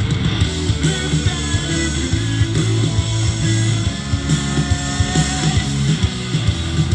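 Rock band playing live, heard from the crowd: distorted electric guitar over bass and steady drum hits.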